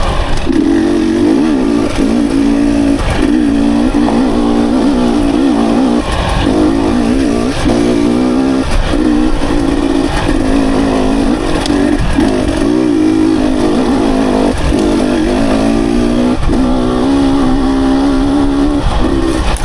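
Dirt bike engine riding a single-track trail, the throttle opening and closing every second or two so the engine note keeps rising and falling. Heavy wind rumble on the microphone runs under it.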